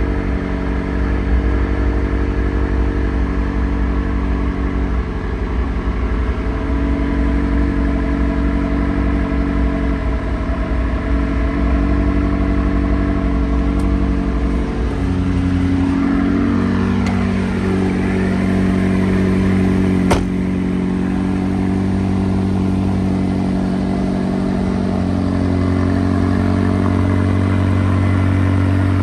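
McLaren 600LT Spider's twin-turbocharged V8 idling steadily in neutral, with its pitch drifting briefly around the middle and a single sharp click about twenty seconds in.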